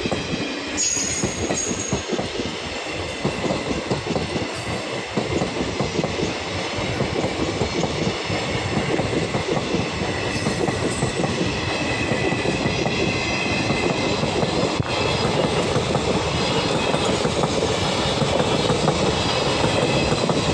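Train passing close by, its coaches' wheels clattering steadily over the rails, getting a little louder toward the end.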